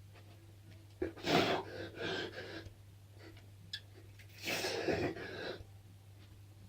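A man's heavy, breathy exhalations, like gasps from exertion, come twice: one about a second in and one again near five seconds. A low steady hum runs underneath.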